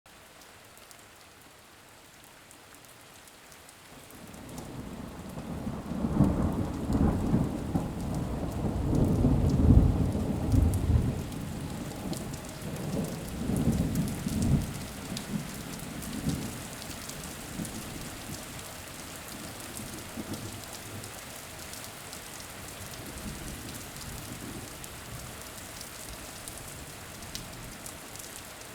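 Rain falling steadily, with a long roll of thunder that builds from about four seconds in, is loudest around ten seconds, and dies away to rain alone.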